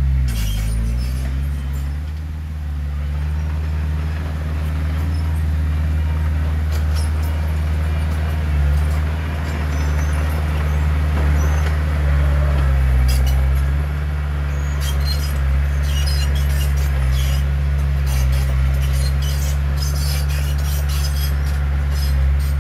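Heavy diesel engine of earthmoving machinery running steadily under load. Its pitch dips briefly about half a second in, and scattered sharp metallic clinks come in the second half.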